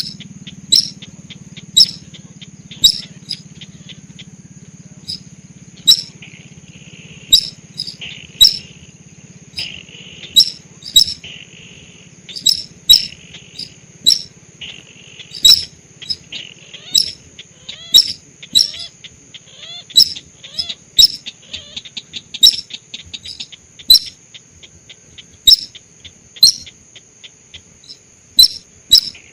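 Lure recording of sintar sawah calls: short, sharp high chirps, unevenly spaced and repeated about once a second. A steady high-pitched tone runs underneath, and softer buzzy trills come and go in the middle stretch.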